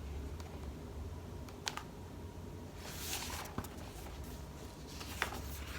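Low room hum with a couple of soft clicks and a brief rustle about three seconds in: a picture book being handled and its page turned.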